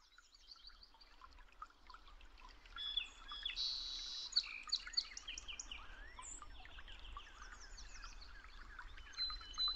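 Several birds chirping and singing, with many short overlapping chirps and whistles and a brief louder trill about three and a half seconds in.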